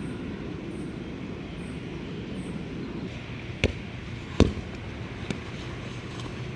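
A volleyball struck by hand: two sharp slaps a little under a second apart, about three and a half seconds in, then a fainter one, over a steady low background rumble.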